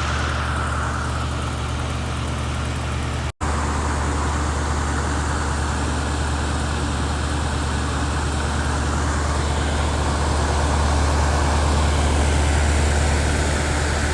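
Repaired Sunblazer pool heat pump running steadily: compressor hum under the rush of the fan blowing cold discharge air, with a brief dropout about three seconds in.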